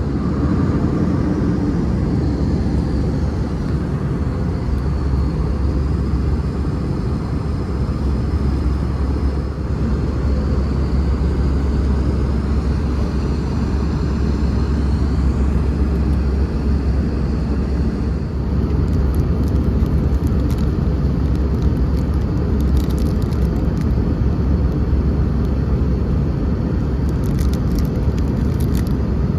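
Airbus A320 cabin noise in flight: a steady, deep roar of airflow and engines with a strong low rumble.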